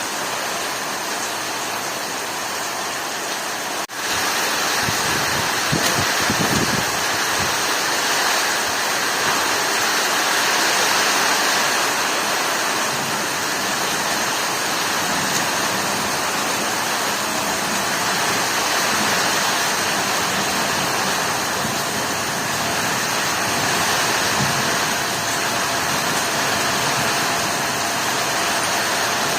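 Heavy rain pouring steadily in a storm, a dense even hiss. It cuts out for an instant about four seconds in and returns a little louder, with a few low rumbles soon after.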